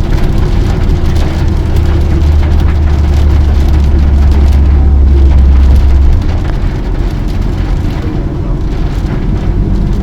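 Engine and road noise of a moving tour vehicle heard from inside the cabin, a steady low drone that eases a little about six seconds in, with rain ticking on the vehicle.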